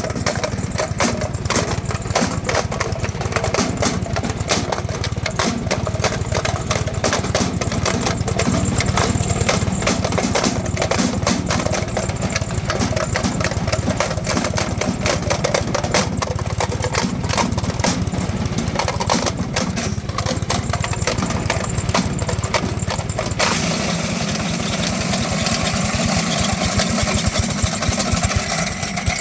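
Wood chipper's gas engine running steadily, with a fast, even firing beat. About 23 seconds in, the sound changes abruptly to a smoother, steadier running note.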